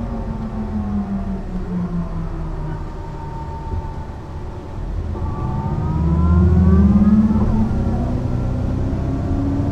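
Mercedes-Benz O 405 NÜ city bus running: its engine note falls as the bus slows, then about five seconds in it pulls away again, the engine and drivetrain whine rising in pitch and getting louder.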